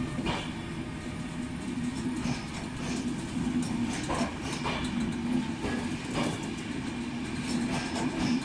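Passenger coaches of a locomotive-hauled train rolling past, their wheels clicking over rail joints at irregular intervals, over a steady low hum.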